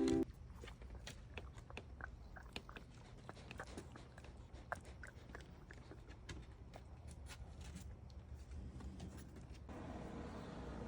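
Lowland paca chewing food: a run of irregular, sharp crunching clicks. Near the end the clicks stop and a steady hiss takes over.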